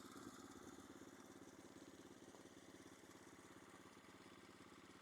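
Orion-100 moped engine idling steadily and faintly, with an even rapid pulse.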